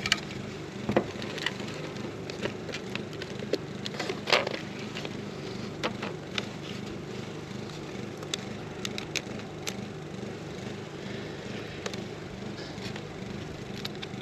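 Scattered clicks and taps of hands handling a wooden hive frame and comb, over a steady low hum.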